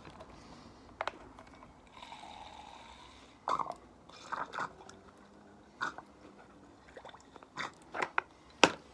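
Refuelling a nitro RC car: a short trickle of fuel going into the tank and a scatter of sharp clicks and taps from the fuel bottle and tank lid, the loudest near the end.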